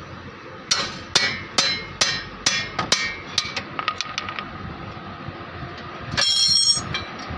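Hammer blows on metal: about eight sharp, ringing strikes, a little over two a second, then a few lighter taps. Near the end comes a short metallic clatter with a ringing tone.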